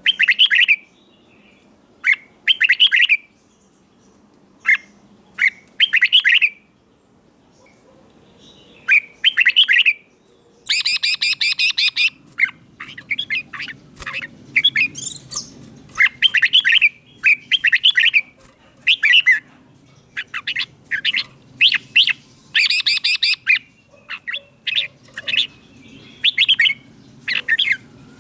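Red-whiskered bulbul singing short, bright whistled phrases with brief pauses between them. The phrases come faster in the second half, with longer, harsher phrases about eleven seconds in and again past twenty-two seconds.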